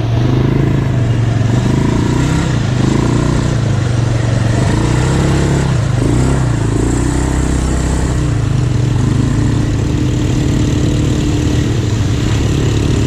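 ATV engine running as the quad is ridden, its note wavering a little with the throttle over a steady rushing noise.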